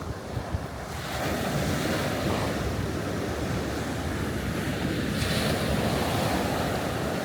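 Waves breaking and washing up the shore at high tide, louder from about a second in, with a hissing surge around five seconds in and wind buffeting the microphone.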